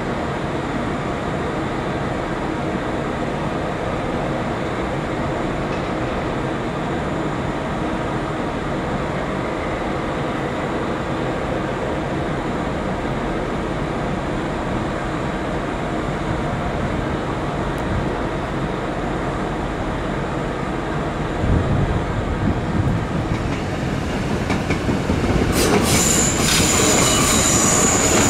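A train moving slowly through the station, a steady rumble that grows louder about three quarters of the way through. Near the end comes a high, thin wheel squeal with clicking of wheels over rail joints.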